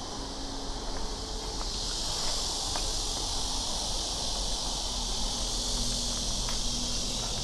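Chorus of cicadas, a steady high shrill drone that swells about two seconds in.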